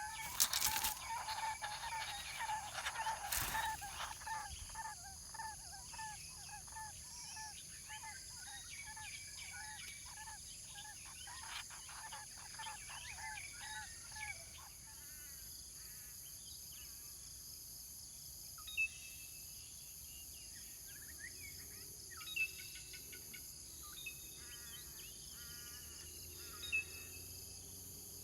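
Lineated barbet calling a long series of low, evenly repeated notes, about two to three a second, which fade out about halfway through. Under it runs a steady high insect whine. A few short, higher bird chirps come later.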